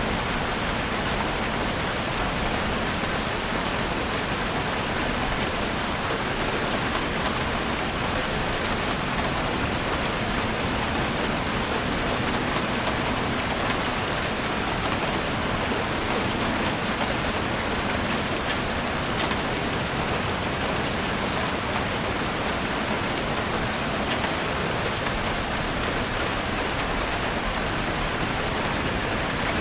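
Heavy rain falling steadily on a roof: a dense, even patter with scattered sharp drop ticks, unchanging throughout.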